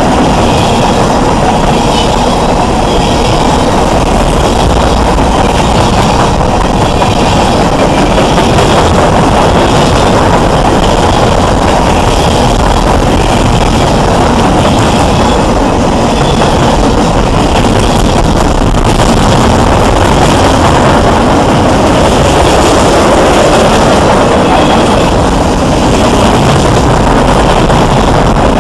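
Train passing at close range: a loud, steady rumble that holds unchanged throughout.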